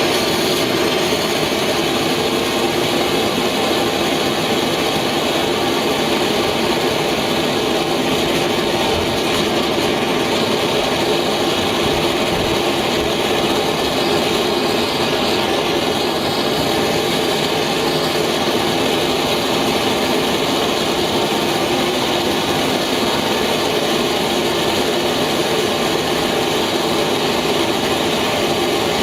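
Rocket engine burning gaseous oxygen (GOX) and ethanol, firing steadily with a loud, even rushing noise that does not change.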